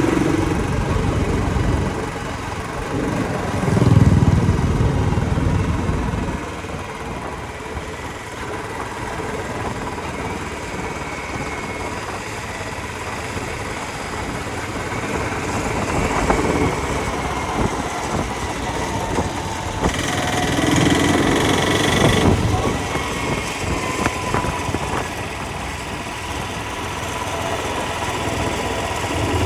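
Royal Enfield motorcycle engine running on the move, a steady drone that swells louder a couple of times.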